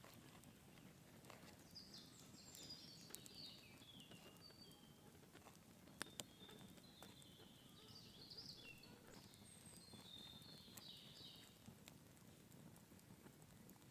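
Faint birdsong: several quick, twittering phrases of high chirps, one a few seconds in, another in the middle and another later on. A couple of sharp clicks stand out, one about three seconds in and a louder one about six seconds in.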